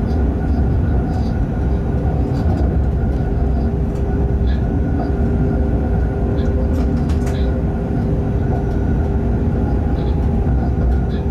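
Freight train heard from the locomotive cab while running at speed: a steady low rumble with a constant hum, and occasional faint ticks and rattles.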